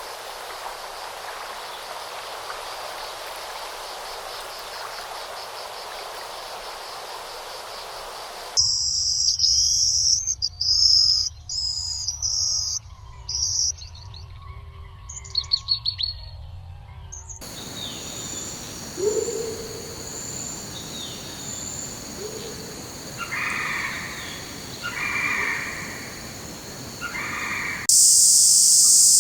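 Rainforest ambience that changes abruptly several times. It opens with a steady hiss, then rapid high bird chirps and calls, then a steady high insect drone under scattered bird calls. A louder high insect drone cuts in near the end.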